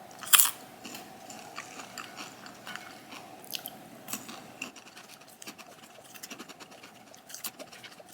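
Close-up crunchy bite into chocolate- and green-tea-coated popcorn, loudest about half a second in, followed by irregular crunching and chewing.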